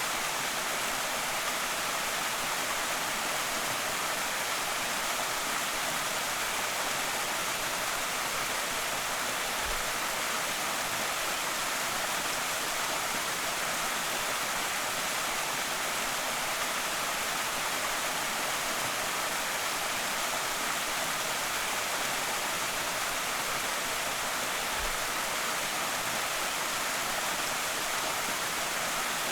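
Creek waterfall: a steady, even hiss of falling water.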